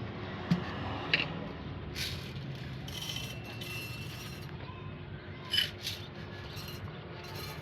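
Sharp clinks and knocks of coffee-making utensils and cups at a barista's coffee cart, a handful of separate strikes over a steady background hum.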